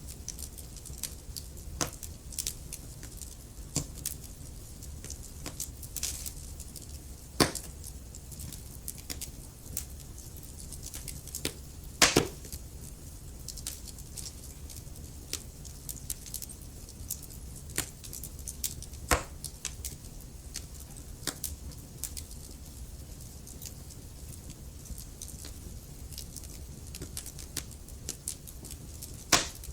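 Wood fire crackling in a fireplace: a low steady rumble of flames under irregular sharp crackles, with a few louder pops at about 7, 12, 19 and 29 seconds in.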